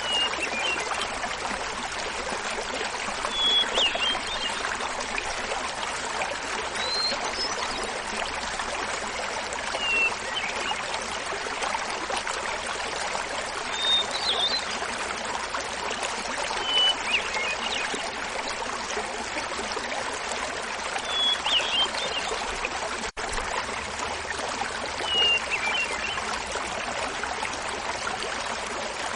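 A small mountain waterfall splashing steadily, with a hermit thrush singing over it: short flute-like phrases every three to four seconds, each at a different pitch.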